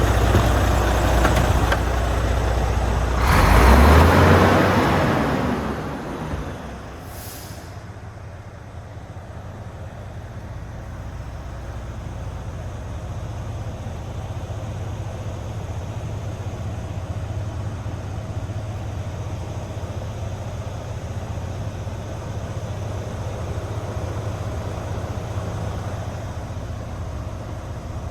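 Volvo FH 460 tractor unit's 13-litre six-cylinder diesel idling, then a loud hiss of released air about three seconds in lasting a couple of seconds, after which the deep drone drops away and a quieter steady low hum remains.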